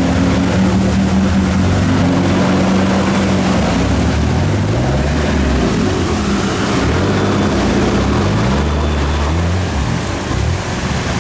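Off-road 4x4 engines labouring during a vehicle recovery. An engine note holds steady at first; from about four seconds in the engines are revved up and down repeatedly under load, over a constant rushing noise.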